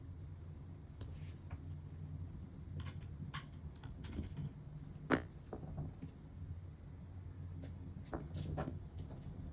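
Scattered small clicks and taps of small parts and tools being handled at a workbench, the sharpest about five seconds in, over a low steady hum.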